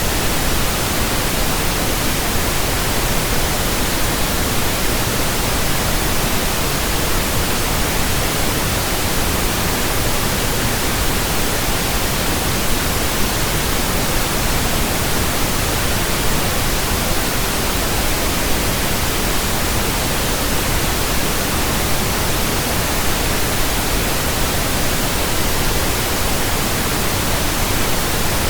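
Steady pink noise from an electronic pink noise generator: an even hiss spread across the whole range, unchanging, used as a burn-in signal for new speakers, headphones and earphones.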